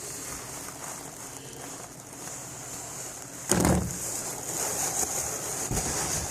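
Steady hiss of room noise, with one sudden thump about three and a half seconds in and busier noise after it.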